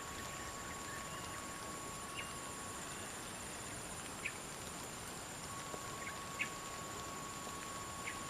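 Steady insect drone, with a continuous high buzz and a held mid-pitched tone, and short sharp bird calls about five times, each well under a second.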